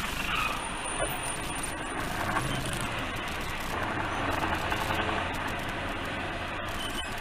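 Steady vehicle and road noise with a low engine hum, picked up by a dash cam's microphone.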